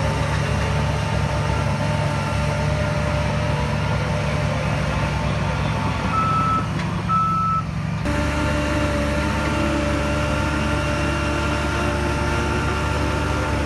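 Heavy diesel earthmoving machinery running steadily, with two short high-pitched reversing-alarm beeps about six and seven seconds in. The engine note changes abruptly about eight seconds in.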